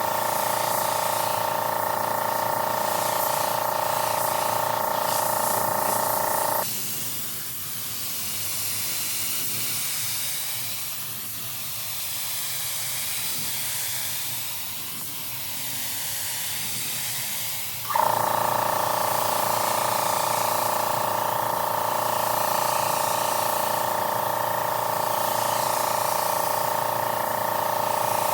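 Steady hiss of air with a steady machine hum of several tones. The hum cuts out abruptly about a quarter of the way through and comes back just as suddenly about two-thirds of the way through, while the hiss goes on throughout.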